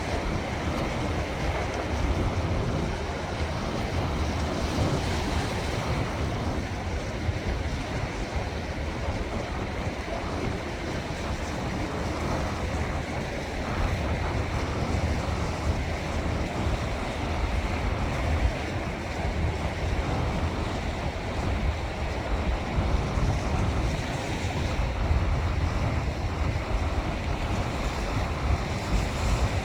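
Sea waves washing in steadily, with wind buffeting the microphone in a deep, uneven rumble.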